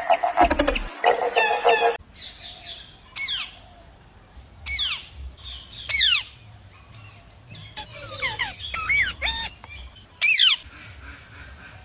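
Brief music for about two seconds, then a bird calling: a string of loud whistled calls that slide steeply down in pitch, coming every second or two at irregular intervals, with fainter calls between them.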